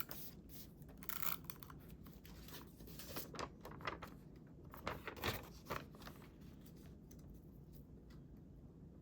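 Scrapbook paper being handled: a short rustle about a second in, then a cluster of quick crisp scrapes and crinkles between about three and six seconds.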